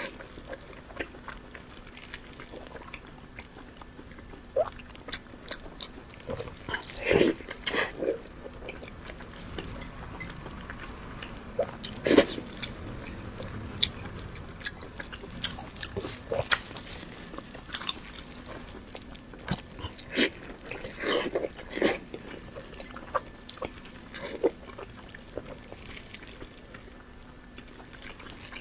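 A person chewing and biting into big chunks of pork belly, heard up close. There are irregular mouth and chewing sounds, with a louder bite every few seconds.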